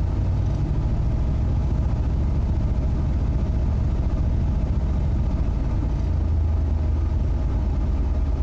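Old plow truck's engine running just after a cold start, not yet warm and not running right: a little cold-blooded. A steady low rumble that grows a little stronger about six seconds in.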